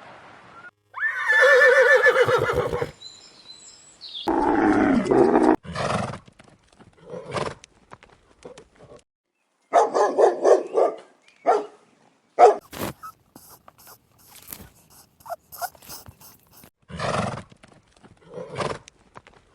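A large animal's loud calls: two long pitched cries in the first few seconds, then a string of shorter calls with brief silent gaps between them.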